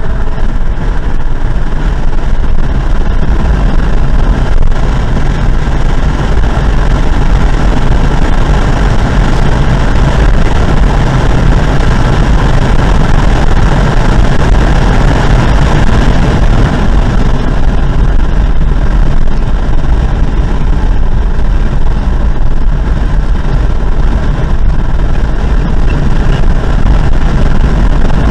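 Car engine running hard at track speed, heard from inside the cabin, loud and steady, mixed with heavy wind and road noise.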